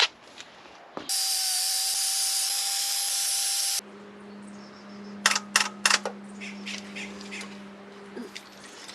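An aerosol spray can hisses in one long spray of about three seconds, starting about a second in. Right after it, a power drill fitted with a small stainless steel wire brush extension runs at a steady hum for about four seconds, with a few sharp clicks partway through.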